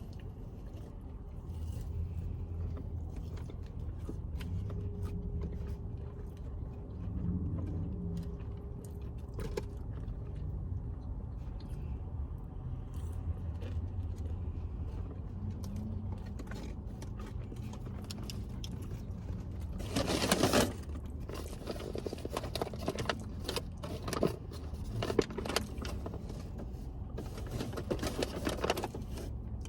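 Steady low road and engine rumble inside a moving car's cabin. About twenty seconds in comes one loud, brief rustling burst, followed by scattered clicks and crackles of handling, like packaging being moved.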